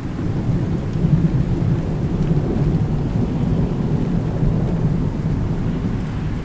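Long low rumble of rolling thunder over steady rain, swelling about a second in and carrying on through.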